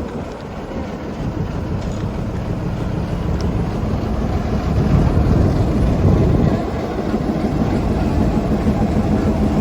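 Local passenger train running on the rails: a steady low rumble that swells a little louder about halfway through.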